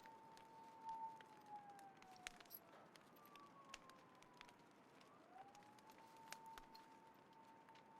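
Wood fire crackling faintly with scattered sharp pops, under a distant siren wail that holds one tone, slides down over a few seconds, then rises back near the end.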